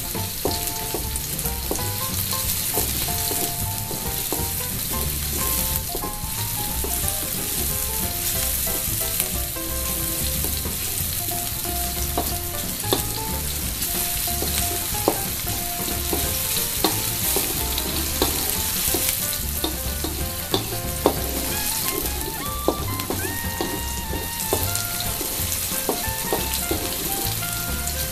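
Sliced garlic, shallots and chilies sizzling in hot oil in a wok as they are sautéed until wilted and fragrant, stirred with a wooden spatula that scrapes and ticks against the pan now and then.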